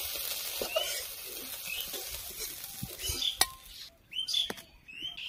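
Prawns sizzling in hot mustard oil in a metal kadai while a metal spatula scrapes them up and lifts them into a steel bowl, with a few sharp clinks of metal on metal. The sizzle fades out about four seconds in.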